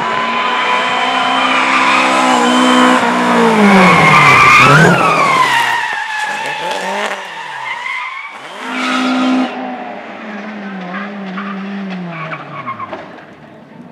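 Rally car engine revving hard and changing gear, with tyres skidding on the loose surface. It is loudest about four to five seconds in, where the pitch drops as the car passes close. It revs again, then fades as it pulls away.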